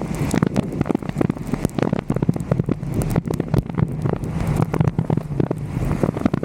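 Wind and rain buffeting the microphone of a roof-mounted 360° camera: a steady loud rush full of many sharp pops, with a low steady rumble underneath.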